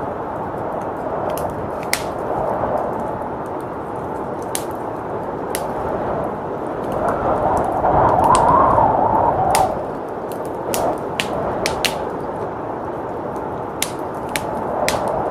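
Wood fire crackling with scattered sharp pops over steady blizzard wind, which rises in a gust about halfway through.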